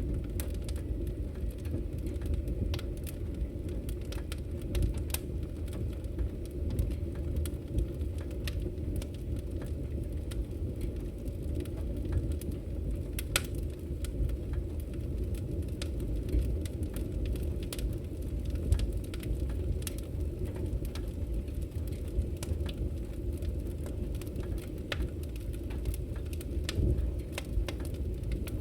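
Wood fire burning: a steady low rumble of the flames with frequent, irregular sharp crackles and pops from the burning logs.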